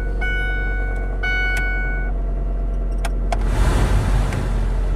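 A Ford Focus's dashboard warning chime sounds as a repeated steady tone for about two seconds. About three seconds in come two sharp clicks, then a short rush of noise as the engine is cranked and catches, over a steady low hum.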